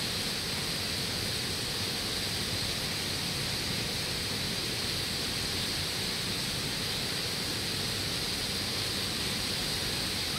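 Steady rush of a flowing mountain river, an even hiss with no change.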